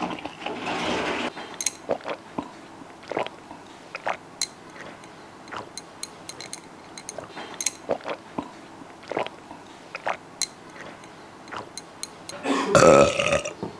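Close-miked mukbang eating: a person chewing spicy malatang, with scattered wet mouth clicks and smacks throughout. There is a short breathy rush just after the start, and near the end a louder breathy vocal gasp.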